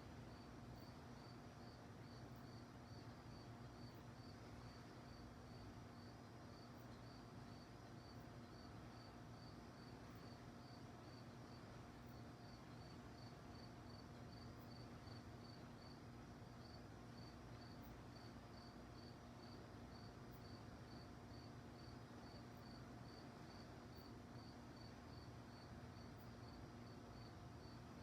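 A cricket chirping faintly at night, an even run of short high chirps about three times a second.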